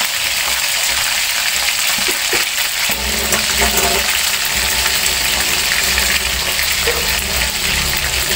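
Chicken pieces deep-frying in hot oil in a wok: a steady sizzle with fine crackling. A low rumble joins in about three seconds in.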